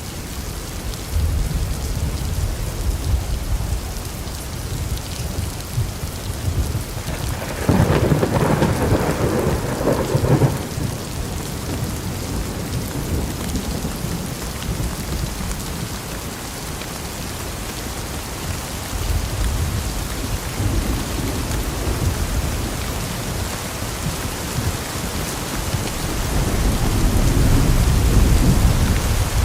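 Steady heavy rain with rolling thunder: low rumbles come and go, with a louder thunderclap rolling out about a quarter of the way in and another swell of rumbling near the end.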